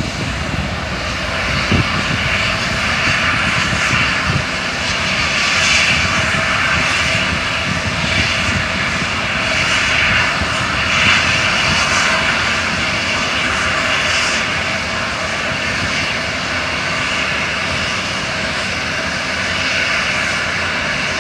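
Diesel engine of a palm-fruit tipper truck running steadily and loudly while it unloads, with a few knocks near the start as the fruit bunches tumble out.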